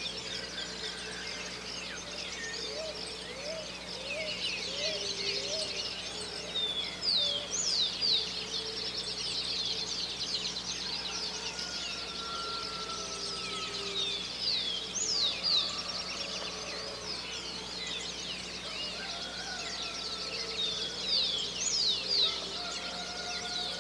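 Dawn chorus: many birds singing and chirping at once, with a few louder sharp calls standing out now and then. A lower call of five short rising notes repeats a few seconds in, under the higher chirping.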